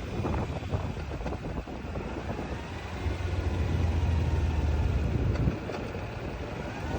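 A motor vehicle's engine rumbling with wind noise, growing louder about three seconds in and easing off again after about five.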